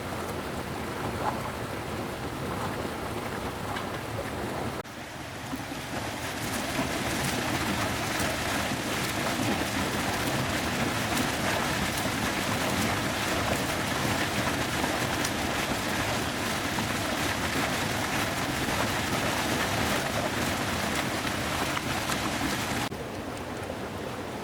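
Heavy rain falling in a steady hiss. It changes abruptly about five seconds in, then grows louder, and drops back slightly near the end.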